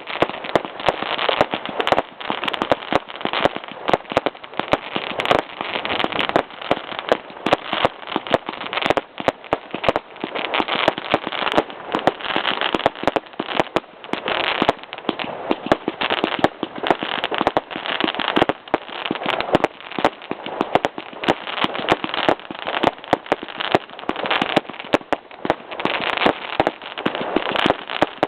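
Classic Fireworks CFM983 firework firing continuously: a dense, unbroken run of rapid bangs and crackles.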